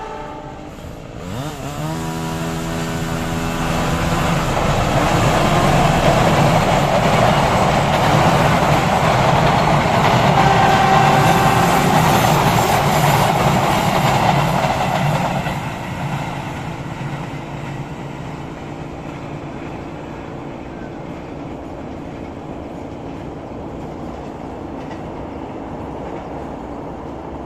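CC 206 diesel-electric locomotive and its train passing: the horn sounds over the first few seconds. The rumble and wheel clatter then build to a loud peak for about ten seconds and drop to a steady, quieter rumble.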